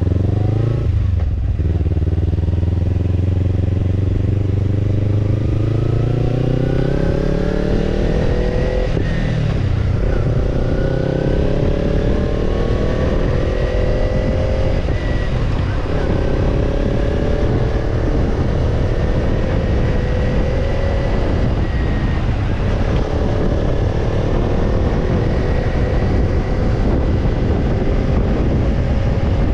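Kawasaki Ninja 250's parallel-twin engine running through a BEET NASSERT Evolution Type II titanium slip-on muffler under way. Its pitch climbs for several seconds with brief breaks in the note, then stays fairly level for the rest of the time.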